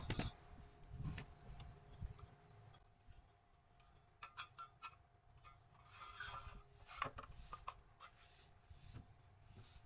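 Faint rubbing and scraping of wood being worked by hand, with a few sharp clicks and a louder scrape about six seconds in.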